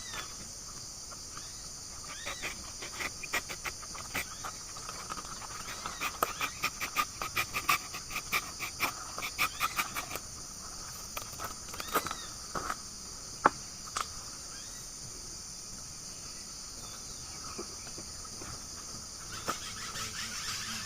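Steady high-pitched insect chorus of crickets or cicadas, with a run of sharp clicks and rustles from about two seconds in, thickest in the middle and dying out by about fourteen seconds.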